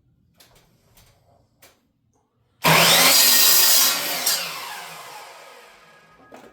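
A power saw starts suddenly about two and a half seconds in and cuts through a wooden stud for about a second and a half. The motor is then released and the blade winds down, its pitch falling over the next two seconds. A few light handling clicks come before the cut.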